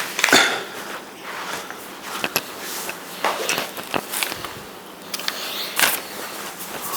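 Irregular, scratchy writing strokes with a few light clicks, from a pen or marker writing out a calculation.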